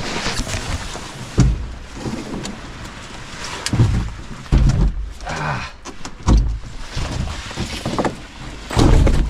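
Dull low thumps every second or two over rustling and handling noise on the microphone, with hard breathing, while a canoe and gear are carried over a rough portage trail.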